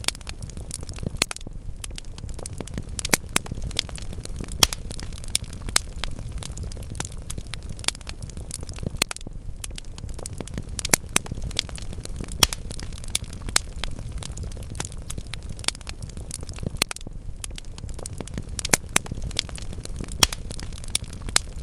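Wood fire burning in a fireplace: a steady low rumble of flames with frequent sharp crackles and pops from the logs at irregular intervals.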